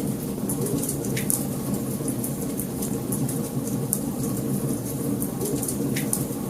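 Wood fire burning in a fireplace: a steady low rumble of flame with frequent small crackles and pops, a few of them louder, about a second in, near the middle and near the end.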